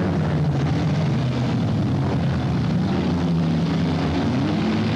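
Stock-car engines running hard on the track, their pitch rising and falling as the cars accelerate and pass, rising near the end.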